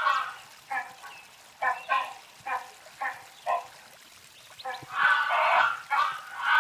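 A bird giving a series of harsh, nasal calls: short single calls about twice a second, then two longer calls near the end.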